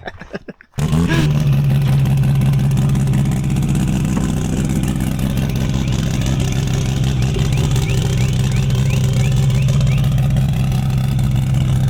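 Car engine running steadily at an even speed, a loud constant drone that cuts in suddenly about a second in.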